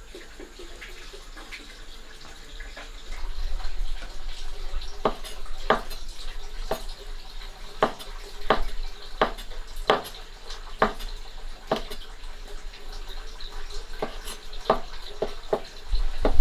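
Running water with a series of sharp knocks, roughly one a second, starting about three seconds in.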